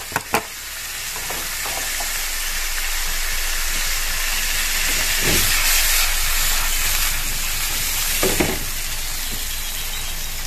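Chopped onion and tomato sizzling in melted butter in a frying pan: a steady hiss that builds and is loudest around the middle. A few sharp clicks at the start and two short knocks partway through.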